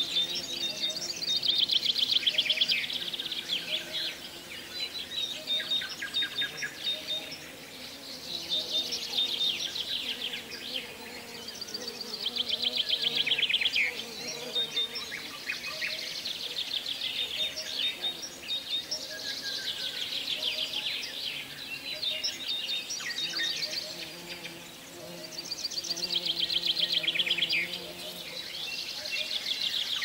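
Songbirds singing: short, high phrases of rapid chirping trills, repeating every few seconds.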